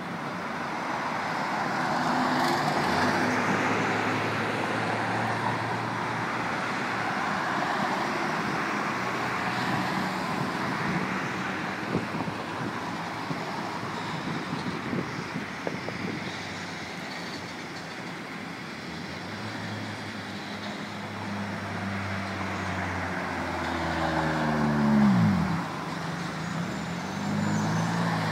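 Ballast hopper cars of a freight train rolling past, a steady noise of steel wheels on rail mixed with road traffic. Near the end a road vehicle passes close by, its engine note falling in pitch as it goes past, the loudest moment.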